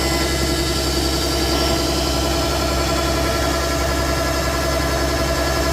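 Kubota DC70 combine harvester's diesel engine running steadily, with a constant hum of several even tones from the engine and threshing machinery.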